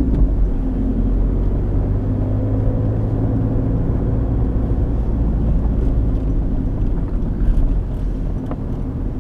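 Car running on the road, heard from inside the cabin: a steady low engine hum mixed with road noise.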